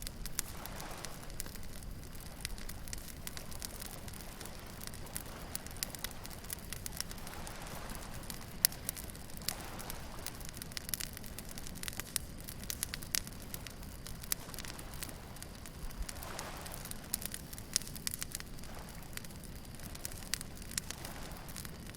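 Beach bonfire crackling, with frequent sharp pops and snaps over a low steady rumble, and soft swells of waves washing in every few seconds.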